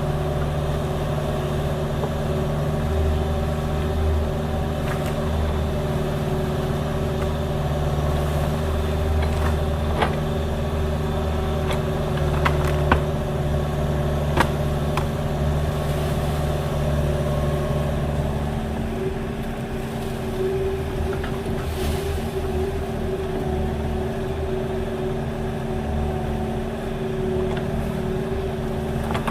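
Diesel engine of an agricultural mini excavator running steadily, with a few sharp knocks in the middle. The low engine note changes about two-thirds of the way through.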